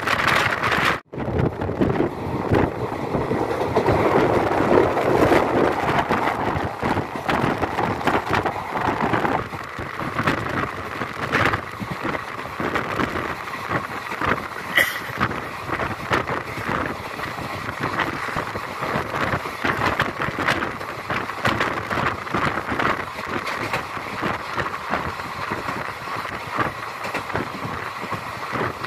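Express train coaches running along the track, heard from on board: a steady rumble and rushing noise with dense, irregular rattling and clattering. The sound cuts out for an instant about a second in, and the running noise is a little louder over the first third.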